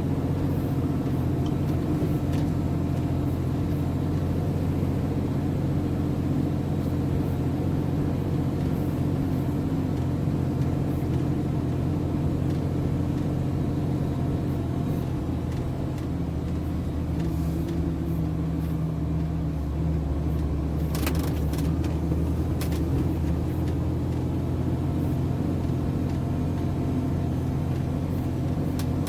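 MAN TGS 33.480 truck's diesel engine running steadily as the truck drives, its pitch dropping slightly about halfway through. A few short clicks come about two-thirds of the way in.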